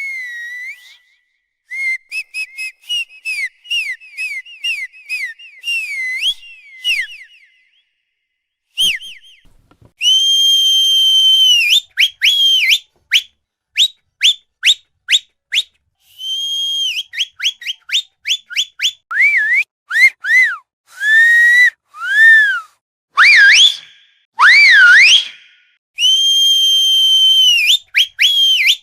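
A high-pitched whistle sounding in a varied pattern: fast warbling trills, then long held notes broken by strings of short chirps, and several rising-and-falling swoops near the end.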